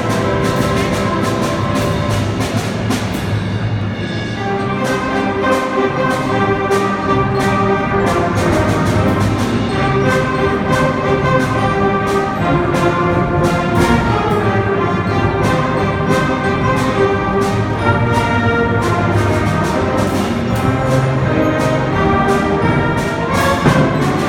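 A live band playing a brass-led orchestral piece, with sustained melody notes over regular drum and cymbal strokes.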